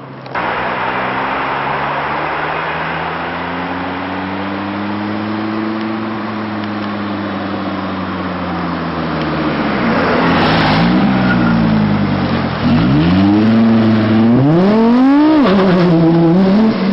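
A turbocharged Volkswagen Golf's engine revving hard as the car accelerates up the road. The pitch climbs and falls slowly at first, then rises sharply several times, dropping suddenly at each gear change, and it grows louder in the last few seconds as the car comes close.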